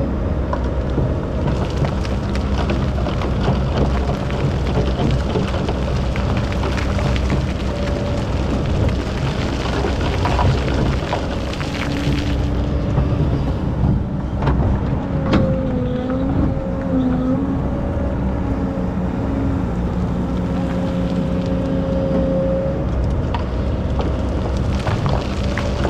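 Excavator's diesel engine running steadily under a loud, even rushing hiss, with a higher whine that wavers in pitch and a few sharp knocks around the middle and near the end.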